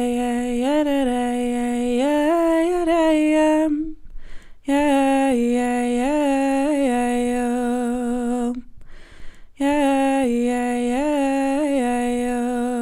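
A woman's voice singing a wordless, unaccompanied melody in three long phrases of about four seconds each, with short breaths between them.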